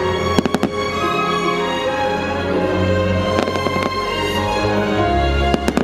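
Fireworks show music playing while aerial fireworks shells burst overhead. The bursts come as sharp bangs: a pair about half a second in, two more around three and a half seconds, and a quick cluster near the end.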